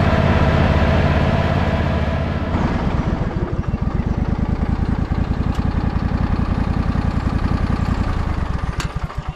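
Engine of a lawnmower converted into a ride-on utility vehicle, running at speed and then slowing to a lumpy idle with separate firing beats, before stopping near the end.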